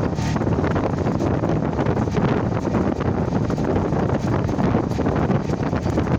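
Steady wind noise buffeting the microphone, a continuous rush heaviest in the low end.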